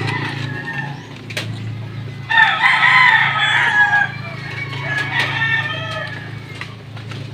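A rooster crowing: one loud long crow starting a little over two seconds in, with fainter crows around it, over a steady low hum and a few sharp clicks.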